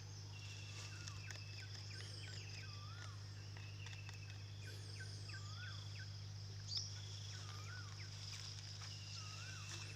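Birds calling with repeated short whistles and rising-and-falling notes, over a steady high insect drone and a low steady hum.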